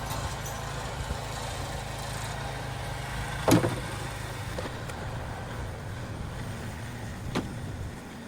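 Gas snow blower engine running steadily, its hum easing off in the second half. A sharp knock comes about three and a half seconds in, with a smaller one near the end.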